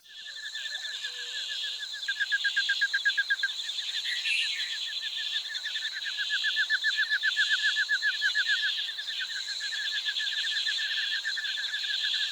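Tropical rainforest night chorus of calling animals: a rapid pulsing trill over a steady high buzzing. The trill swells louder twice.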